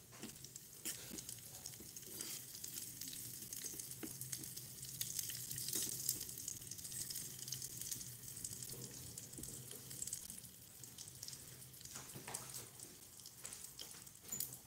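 Onion slices, garlic and bay leaves sizzling and crackling in hot oil in a tiny stainless-steel pot, with small clicks of a miniature slotted spoon stirring against the pot.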